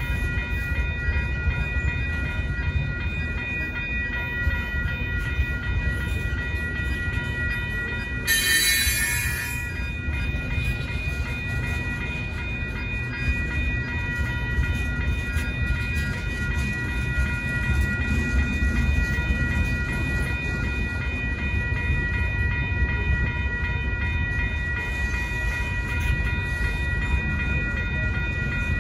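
Freight train cars rolling past a grade crossing: a steady low rumble of wheels on rail, with the crossing bell ringing over it. A brief hiss about eight seconds in.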